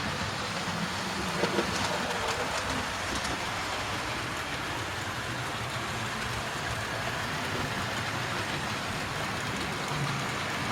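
Model railway tanker train running round the layout: a steady whirring rumble of the locomotive's motor and the wheels on the track, with a few faint clicks in the first few seconds.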